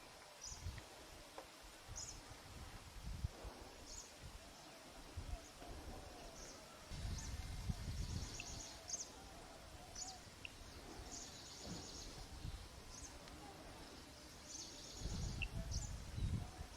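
Faint forest ambience: short high-pitched chirps, some drawn out as quick trills, repeating every second or two, over irregular low rumbles on the microphone.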